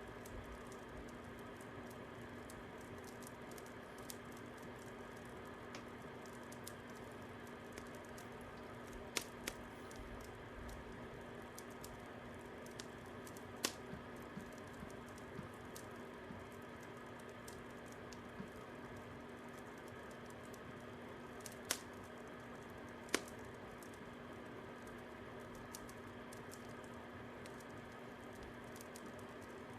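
Fire crackling: a steady low hiss with a few sharp, isolated pops, two close together about nine seconds in and more around fourteen and twenty-two seconds.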